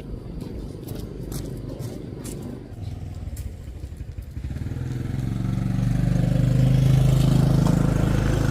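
A few sharp clattering knocks, then about halfway through a small engine starts to be heard running and grows steadily louder, loudest near the end.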